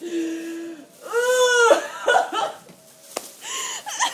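A woman's groans and wails of disgust. There is a held low note, then a long wail that rises and falls, then shorter whimpering sounds. A sharp click comes about three seconds in.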